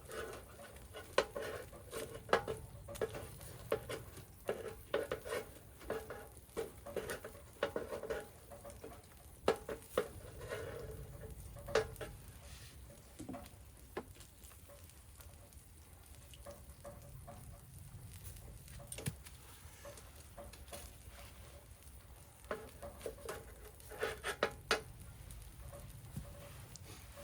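Food being moved on a wood-fire grill: clusters of clicks and knocks from handling the food and grill, in two bursts with a quieter stretch between. Steady rain patter and the fire's sizzle run underneath.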